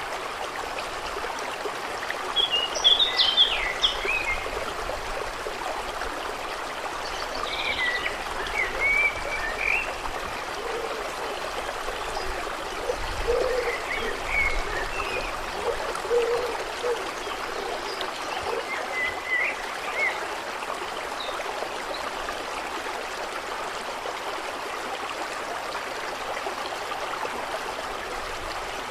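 Steady sound of running water, with short bird chirps coming and going every few seconds and a run of short low calls around the middle.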